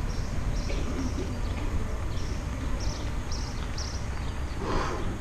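Outdoor ambience: small birds chirping in short repeated bursts over a steady low rumble. A brief louder noise comes near the end.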